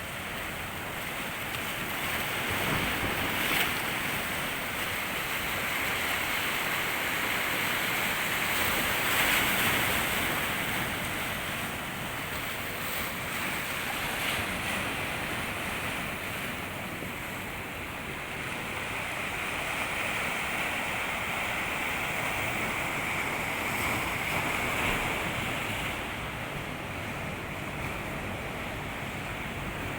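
Sea waves washing onto a shore: a continuous rush of surf that swells and eases in slow surges every few seconds.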